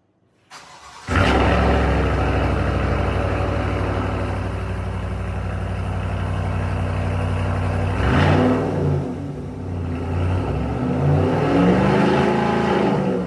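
Chevy Silverado 6.2-litre V8 with a Borla S-Type cat-back exhaust starting up: a short crank, then the engine catches about a second in and runs at a steady, loud idle. From about eight seconds in the exhaust note rises and falls in pitch.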